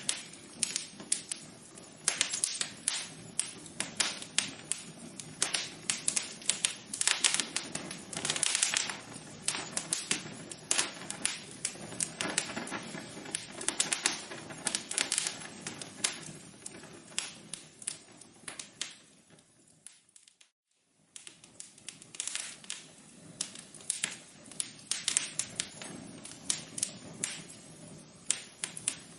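Wood fire crackling in a fireplace: dense, irregular pops and snaps over a soft hiss. About twenty seconds in it thins out and dips to near silence for about a second, then the crackling resumes.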